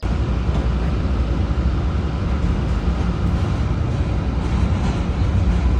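Interior noise of an MBTA Green Line Type 8 Breda light-rail trolley: a steady low rumble with a hiss over it, without a break.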